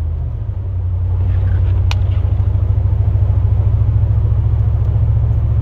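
Plow truck's engine and drivetrain heard from inside the cab as a steady low rumble with a fast even pulse. The rumble dips briefly at the start. One sharp click comes about two seconds in.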